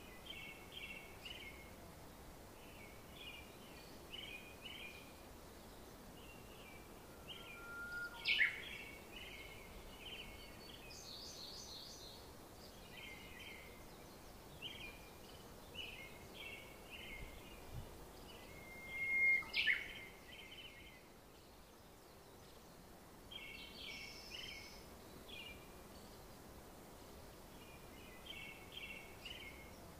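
Small songbirds chirping in short repeated phrases over a faint steady outdoor hiss, with two louder, sharper calls about eight and twenty seconds in.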